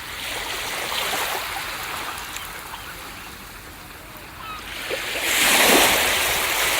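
Ocean waves washing on a beach: the surf hisses and ebbs away, then a wave breaks loudly a little over five seconds in.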